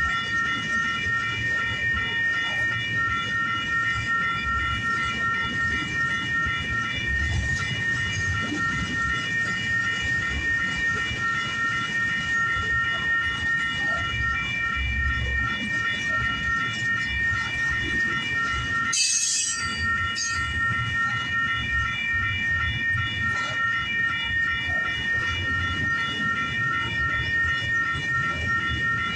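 Intermodal freight cars rolling past, a steady rumble with irregular clunks from the wheels and couplings. A steady high-pitched ringing tone sits over it throughout. A brief sharp crackle comes about two-thirds of the way through.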